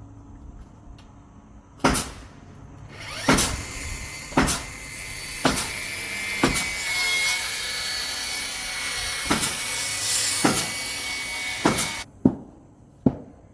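Carpentry on timber framing: a series of sharp strikes into wood, about one a second, of the kind made driving nails. From about three seconds in to about twelve seconds a steady hissing noise runs under the strikes.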